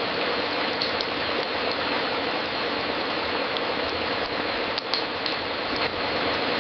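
Fireplace fire crackling, with a few scattered sharp pops over a steady hiss.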